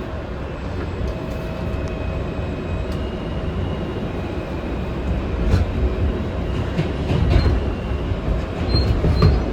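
New York City subway R train running between stations, heard from inside the car: a steady low rumble of wheels on rails with a faint high-pitched whine. A few sharp clacks come in the second half.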